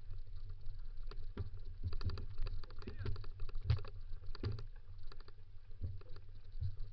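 Dog-pulled kick scooter rolling over a rough dirt trail: a steady low rumble with irregular knocks and rattles from the wheels and frame.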